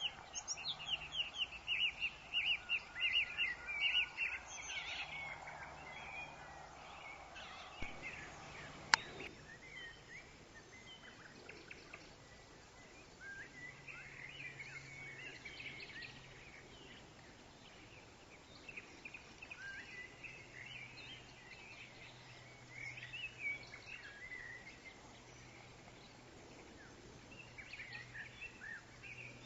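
Woodland birds chirping over a faint hiss of wind in trees: a dense, rapid run of chirps in the first few seconds, then scattered calls. A single sharp click about nine seconds in.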